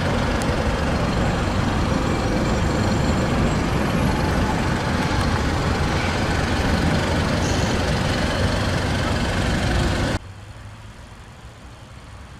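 Steady, loud rushing vehicle noise. About ten seconds in it cuts off abruptly, leaving a faint low hum.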